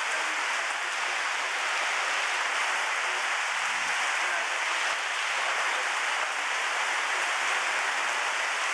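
Steady rain falling and pattering on surfaces, an even hiss without pause.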